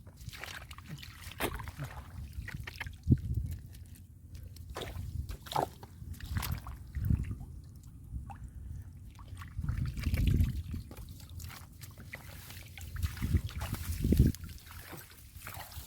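Muddy water sloshing and dripping as hands work through it, with irregular splashes and soft knocks.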